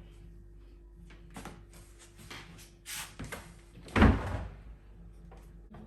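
A few short knocks and bumps of household handling, the loudest a heavy thud about four seconds in, over a faint steady hum.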